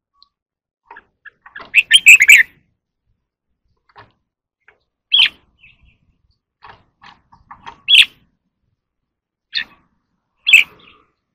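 Red-whiskered bulbul singing in short chirpy phrases. There is a quick run of notes about two seconds in, then single sharp calls every couple of seconds.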